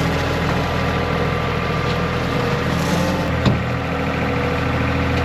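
Skid steer engine running steadily during grading work, with a single sharp clank about three and a half seconds in.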